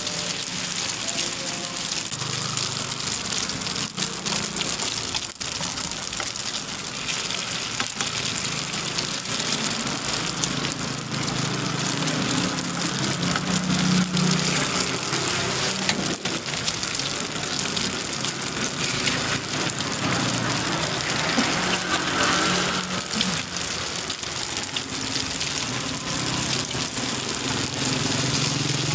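Egg and fillings sizzling steadily in a hot multi-cup metal pan, a rain-like hiss, with a few light metal clicks of spoons against the pan.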